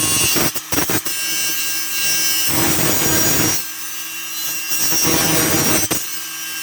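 Wire wheel on a power tool scrubbing scrap bed-frame steel clean: a harsh scratchy hiss over a steady motor whine, easing off briefly a couple of times near the start and lighter for a stretch in the middle and near the end as the pressure changes.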